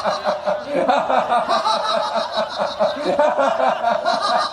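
People laughing on purpose as a laughter yoga exercise: an unbroken run of quick ha-ha bursts.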